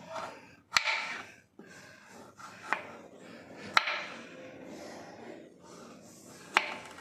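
Kitchen knife cutting through a raw carrot onto a cutting board: four sharp chops, unevenly spaced, a second or two apart.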